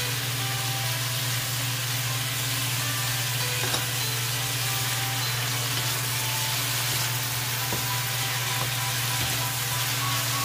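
Chicken thigh strips and onions sizzling in a hot wok as they are stirred with a wooden spatula, with a couple of light knocks of the spatula against the pan.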